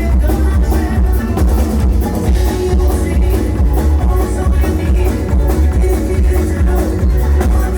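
Live bluegrass-style cover band playing at full volume, with drums over plucked string instruments and a heavy, steady bass.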